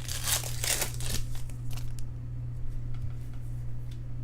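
Trading cards being flipped and slid through the hands: a quick run of papery swishes and flicks in the first second or so, sparser after, over a steady low hum.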